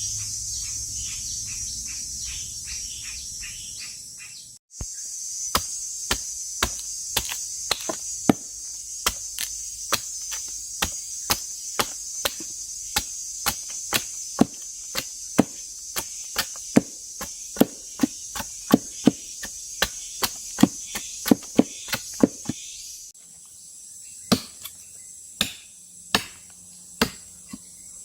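Insects buzzing steadily and high-pitched throughout. From about five seconds in, a run of sharp, regular blows on wood comes about two to three a second, slowing to about one a second near the end.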